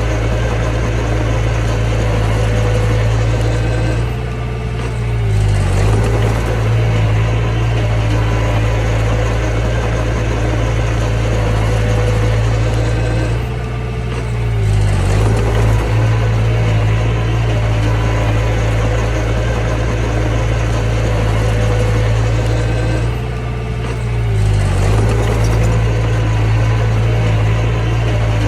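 Mini bulldozer's diesel engine running under steady load. About every ten seconds, three times in all, it briefly drops in level and its pitch dips and recovers, a change of throttle or load in the push cycle.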